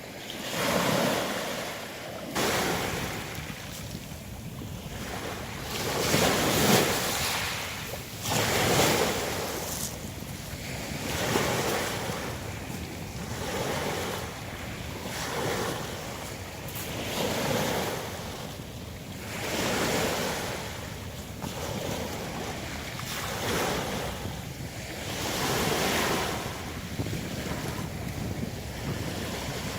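Sea surf washing onto a pebble beach, each wave surging and drawing back with a hiss, a new surge about every two seconds.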